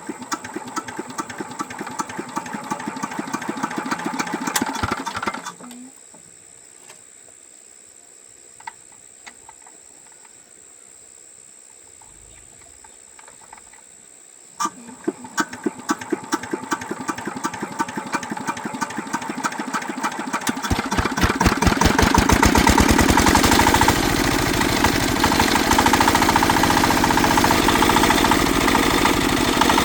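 Tractor engine, freshly rebuilt with new piston rings and connecting rod bearings, being turned over to start. The first attempt pulses evenly for about five seconds and dies. A second attempt starts about halfway through, speeds up and catches, and the engine then runs loud and steady.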